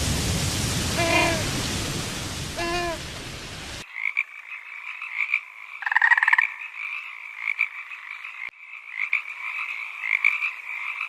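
Loud hiss with three short pitched animal calls, then a sudden change about four seconds in to a steady chorus of high, pulsing animal calls, with one louder call about six seconds in.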